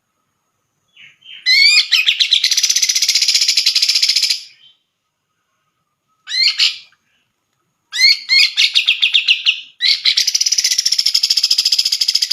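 Cucak jenggot (grey-cheeked bulbul) singing loud phrases, each opening with a few quick rising notes that run into a fast, even trill. There are four phrases, the second one short, with brief silences between them.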